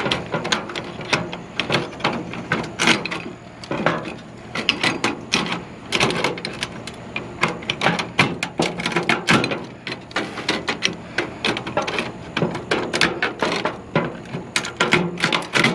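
Irregular clicking and clattering of hard scrap parts and hand tools being handled, with sharp knocks coming several times a second at busier moments.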